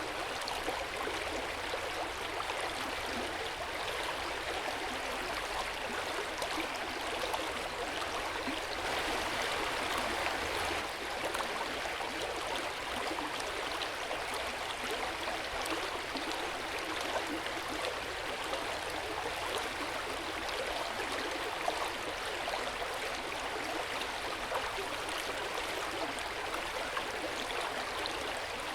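Hot spring water running in an open-air bath: a steady, even splashing and trickling that swells slightly about ten seconds in.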